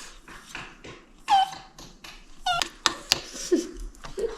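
A dog whining with high cries that slide down in pitch, twice, with a few sharp clicks between them: eager for food it knows is coming.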